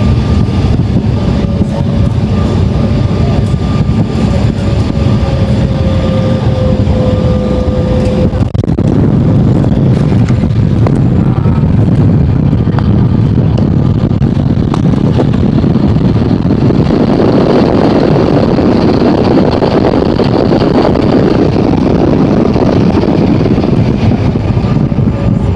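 Jet airliner heard from inside the cabin during landing: a steady rush of engine and airflow noise with a faint whine that falls slightly over the first several seconds. From about two-thirds of the way in, a broader, louder rushing noise builds up.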